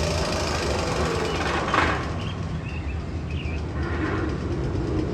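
Magnum XL 200 roller coaster train rumbling and rattling along its steel track, with a brief louder rush just under two seconds in and a few short squeaks after it.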